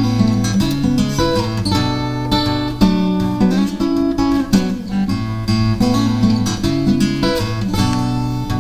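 Acoustic guitar strummed and picked through a chord progression, with no singing.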